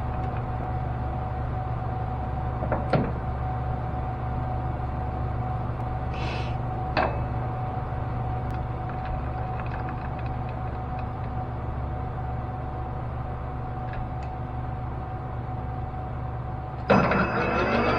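Steady machine hum with a couple of light clicks, then about a second before the end a lathe motor switches on and spins up with a rising whine.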